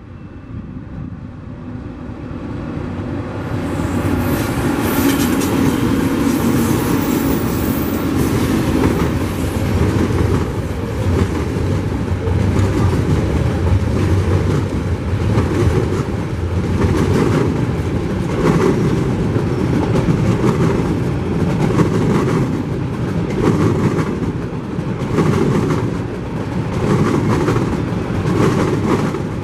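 Two Tasrail TR class diesel-electric locomotives grow louder as they approach and pass under power. A long string of container wagons and empty log wagons then rolls by with a steady, rhythmic clickety-clack of wheels over the rail joints.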